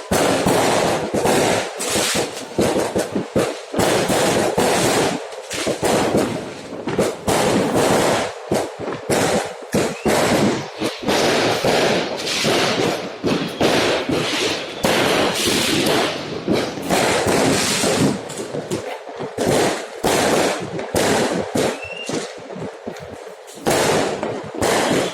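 Fireworks and firecrackers going off all around in a dense, continuous barrage of bangs and crackles, with a brief rising whistle about three quarters of the way through.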